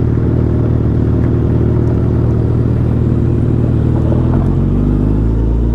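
Suzuki Hayabusa's inline-four engine running steadily at low revs on a rough dirt track, its note shifting slightly about four seconds in.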